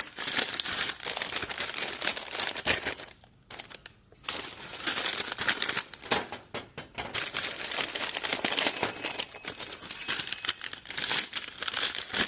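Crinkly plastic snack bags, such as chip bags, being handled and crumpled in irregular bursts with short pauses.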